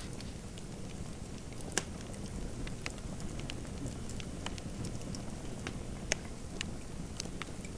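Fireplace fire crackling: a steady low rumble with irregular sharp pops, the loudest a little under 2 seconds in and again about 6 seconds in.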